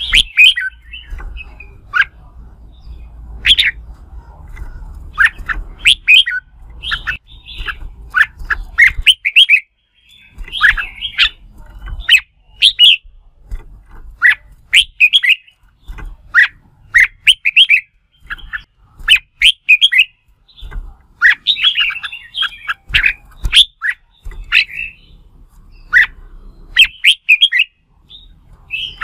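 Red-whiskered bulbul singing its competitive song: short phrases of rapid notes, repeated every second or so with brief gaps, over an intermittent low rumble.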